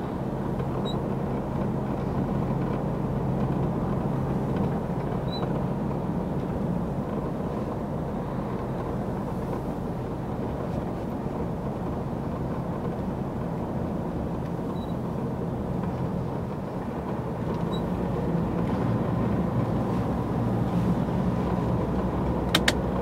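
Lorry engine and road noise heard from inside the cab while driving: a steady low hum. A couple of sharp clicks come near the end.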